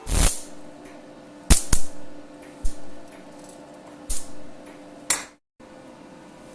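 Sharp metallic knocks and clinks, about six hits at uneven intervals, each ringing briefly.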